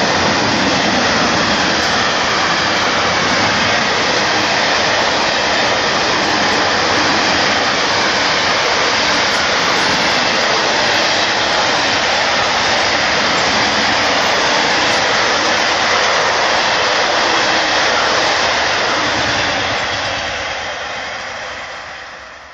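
Freight train of covered sliding-wall wagons rolling past: steady noise of wheels on the rails, fading out over the last few seconds as the end of the train passes.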